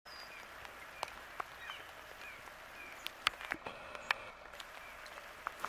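Steady rain hiss with scattered sharp taps of drops, and a few short high chirps of small birds.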